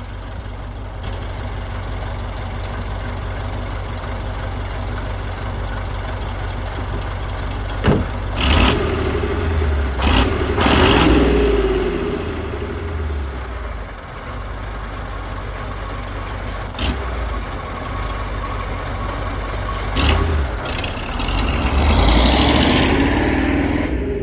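A 1985 KAMAZ 4310 6x6 truck's V8 diesel engine running with a steady low rumble. It grows louder in spells near the middle and again near the end.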